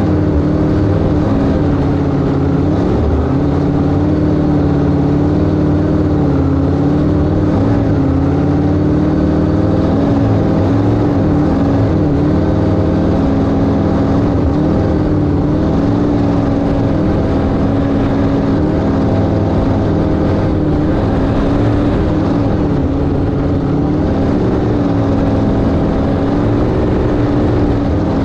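Inboard engine of a 1971 Sanger flat-bottom V-drive boat running at a steady cruising speed, its pitch wavering slightly up and down.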